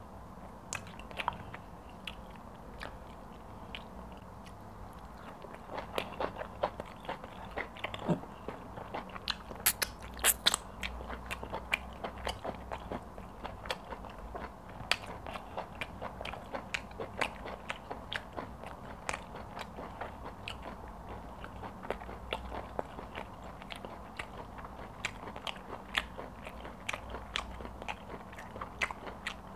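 Close-up eating sounds of pounded yam and egusi soup taken by hand: wet chewing and lip smacks, a steady run of sticky clicks, with a few louder smacks about ten seconds in.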